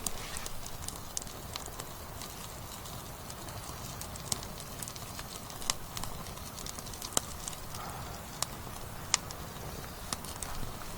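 Wood campfire burning with irregular crackles and a few sharp pops over a steady low background noise.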